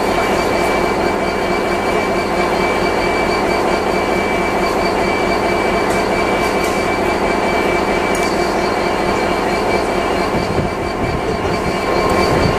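A train moving at close range, a loud, steady rumbling noise with a thin, steady high squeal over it.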